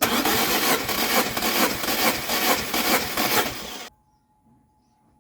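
Lada Granta engine being turned over on its starter for a compression test, whirring with an even pulse from the cylinders, without starting. The cranking stops abruptly about four seconds in.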